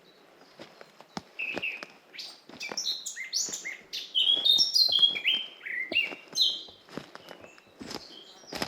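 Forest songbirds singing, a busy run of quick chirps and falling whistled notes that is loudest in the middle, with soft footsteps on the path underneath.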